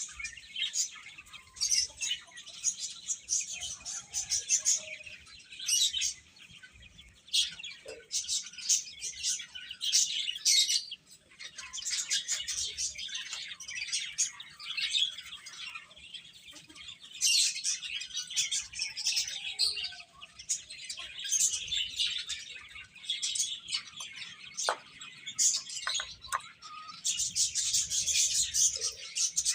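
A group of baby chicks peeping and chirping continuously, many overlapping high-pitched cheeps.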